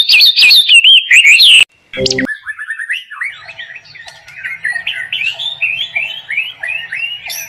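Small bird chirping in quick, loud repeated notes that cut off suddenly about a second and a half in; after a brief gap, softer rapid chirping and twittering carries on.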